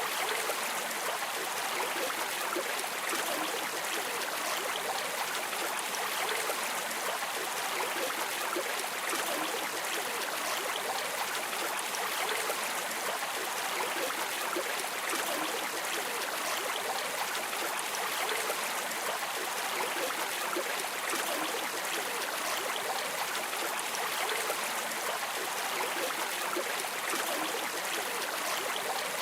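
River water flowing steadily: an even, unbroken rushing hiss with no change in level.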